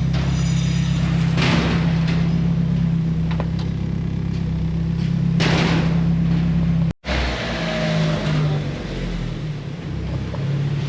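Mazda Miata 1.8 L four-cylinder engine running steadily at idle, a constant low hum, with a brief break about seven seconds in.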